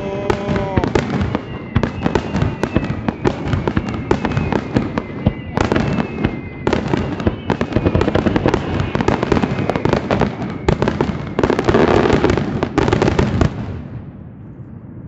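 Fireworks display: aerial shells bursting in a rapid, continuous barrage with dense crackling, loudest near the end, then dying away about fourteen seconds in.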